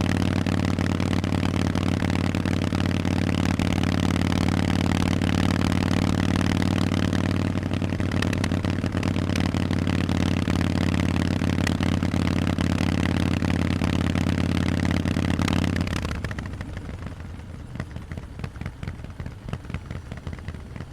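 Harley-Davidson Forty-Eight's air-cooled V-twin engine through Vance & Hines exhausts, running at a steady speed. About three-quarters of the way through, the sound drops away to a quieter, uneven beat as the throttle is closed.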